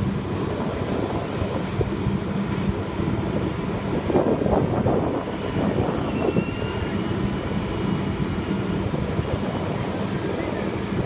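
Bucket truck's engine running steadily, a continuous hum and rumble that grows rougher and a little louder for a couple of seconds in the middle.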